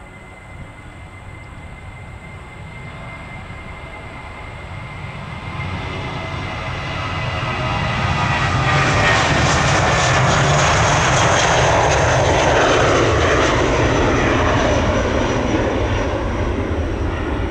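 Jet airliner's engines passing close by: a thin whine at first, then a rising roar that peaks about two-thirds of the way through and eases slightly near the end.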